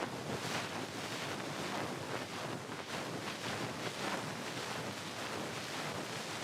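Ear pick (mimikaki) scraping and rubbing close against the microphone, as in ASMR ear cleaning: a dense run of rapid, scratchy strokes.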